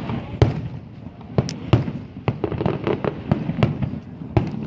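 A fireworks display going off: an irregular string of sharp bangs and cracks, several a second at times, over a continuous rumble of shells bursting.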